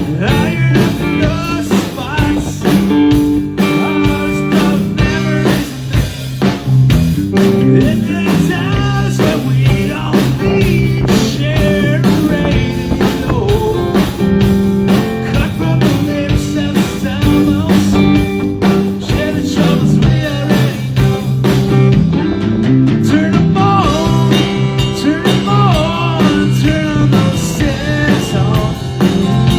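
Live band playing a blues-rock song: electric guitar and bass over a steady drum beat, with some singing.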